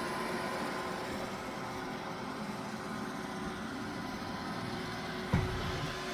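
Roomba robot vacuum running, a steady hum and whine. A single sharp thump comes about five seconds in.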